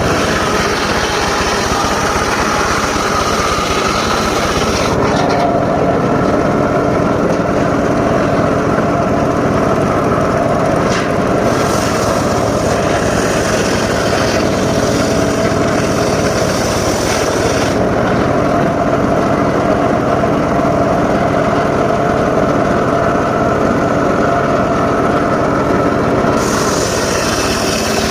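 Homemade engine-driven circular saw rig running steadily while sawing mahogany timber. The sound changes character about five seconds in, with the upper hiss dropping away, and shifts back near the end.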